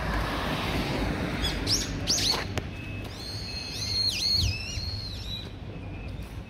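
A bird calling: a few sharp calls sweeping downward in pitch about a second and a half in, then a run of high, wavering notes, over a steady background hiss.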